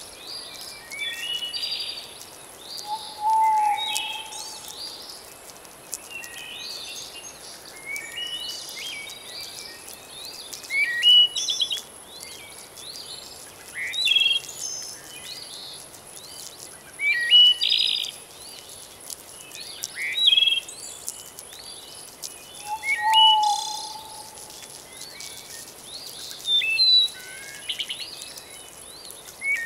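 Birds chirping in short, bright phrases every few seconds over a faint steady background hiss. A lower, shorter call comes twice.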